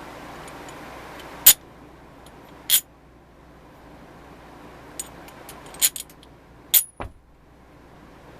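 Sharp metallic clinks, about six, spread unevenly, as small metal tool parts are handled and set down, with a duller knock about seven seconds in. A steady hiss stops with the first clink, about a second and a half in.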